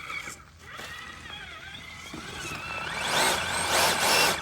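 Scale RC rock crawler driving: its electric motor and three-gear transmission whine, rising and falling in pitch with the throttle. The whine gets louder toward the end.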